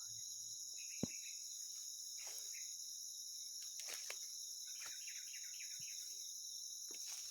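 Steady high-pitched insect chorus, with a sharp click about a second in and a few faint short chirps scattered through.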